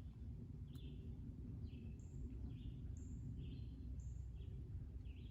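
A bird singing short, high chirping notes about once a second over a steady low outdoor rumble.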